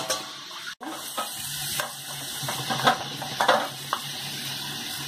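Onion, ginger and garlic paste frying in oil in a steel kadai, sizzling steadily, with several short scrapes and clinks of a utensil.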